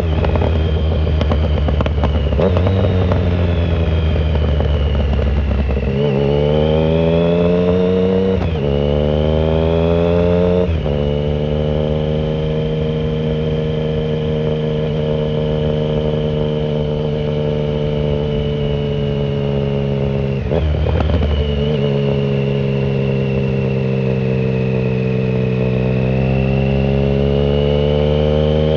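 2009 Triumph Speed Triple 1050 inline three-cylinder engine through an unsilenced shorty Competition Werkes exhaust, under way. The revs drop at first, then climb through two quick upshifts and settle to a steady cruise. There is a brief dip in the revs about two-thirds of the way through, and they pick up slightly near the end.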